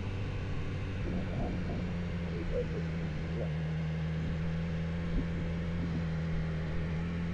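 Car engine running steadily, its note stepping up about a second and a half in and then holding.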